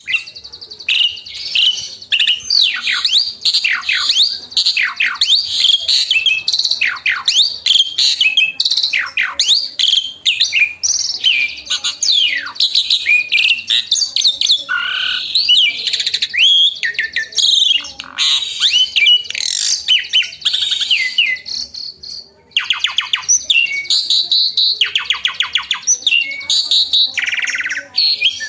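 Asian pied starling singing continuously: a varied stream of whistles, steep downward-sweeping notes and chatter. It pauses briefly about two-thirds of the way through, then breaks into rapid rattling, stuttered notes. This is the full, rich song that keepers call 'gacor', packed with learned 'isian' phrases.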